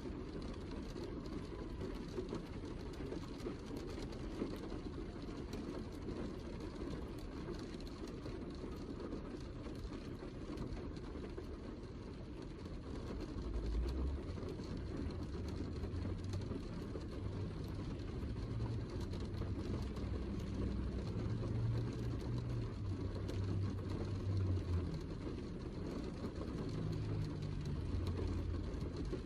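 Heavy rain falling steadily, with a low rumble swelling in and out from about halfway through.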